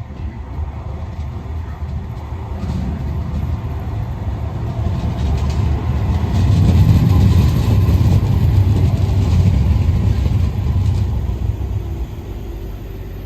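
Manchester Metrolink tram arriving: a rumble that grows louder, is loudest in the middle, and eases off near the end as the tram pulls in.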